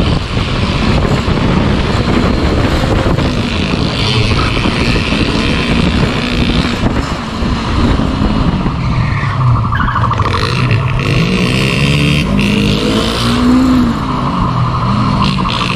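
Motorcycle engines running at speed during a chase, revs rising and falling, over a steady rushing noise.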